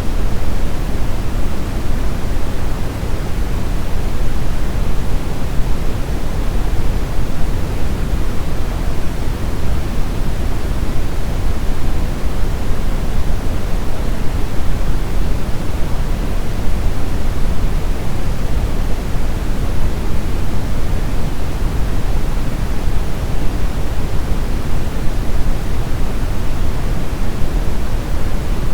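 Steady synthetic brown noise: an even, unchanging rumbling hiss weighted heavily toward the low end.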